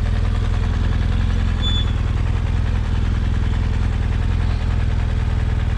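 Motorcycle engine running steadily at low revs, close to idle, as the bike picks its way over rocky ground on a steep technical trail.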